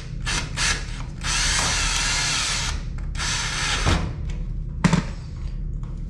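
Power drill/driver running in a few quick spurts, then two longer runs, driving screws. A sharp click comes near the end.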